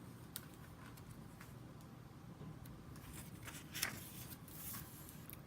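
Faint rustling of a paper page being turned, with a few soft clicks before the rustle.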